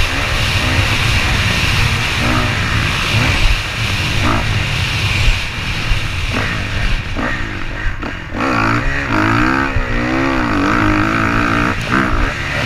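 Motocross dirt-bike engine revving, its pitch rising and falling repeatedly, most clearly in the second half.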